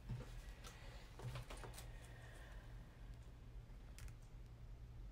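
Faint, light clicks and taps of hands working at a desk, several close together in the first two seconds and a single sharper click about four seconds in.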